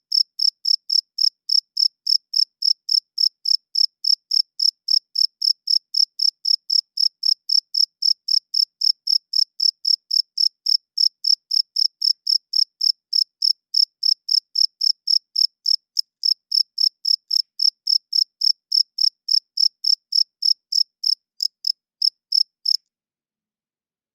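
A cricket chirps in a steady, even rhythm of about three high chirps a second. The chirping stops suddenly near the end.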